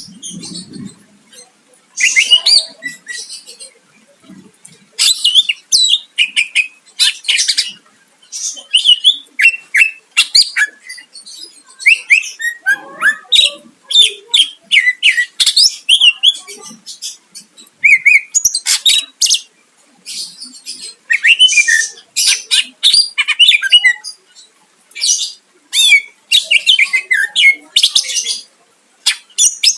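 Green leafbird (cucak ijo) singing loudly in rapid, varied phrases of sharp whistled and chattering notes, broken by short pauses. This is the vigorous full song that keepers use to goad a rival bird into answering.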